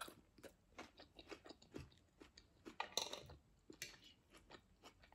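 Faint, close-up chewing of a mouthful of tuna pasta salad: irregular soft wet smacks and mouth clicks, with one slightly louder click about three seconds in.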